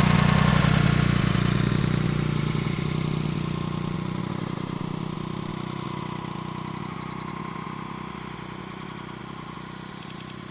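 A motor vehicle's engine running, loudest at the start and fading steadily as it moves away.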